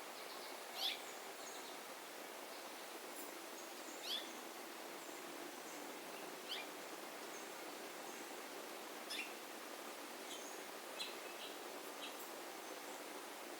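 Small bird calling: short high notes that slide quickly downward, repeated every two to three seconds, with a few softer short chirps in the second half, over a steady background hiss.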